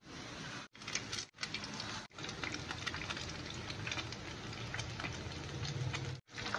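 Batter-coated eggplant rolls deep-frying in hot oil in a pan: a steady sizzle with fine crackling, cut by brief silent gaps a few times in the first two seconds and once near the end.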